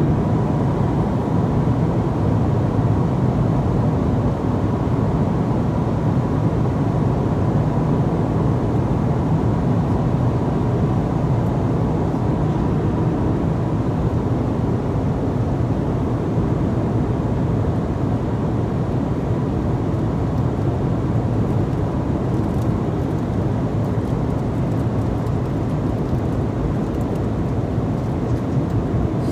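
Steady airliner cabin noise: an even rush of engine and air, strongest in the low range.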